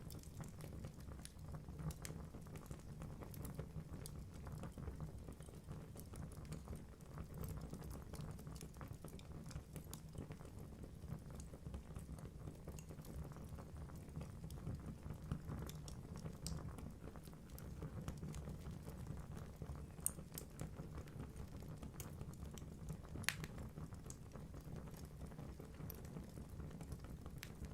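Wood fire burning in a fireplace: a steady low rumble of flames with frequent small crackles and a few louder pops from the logs.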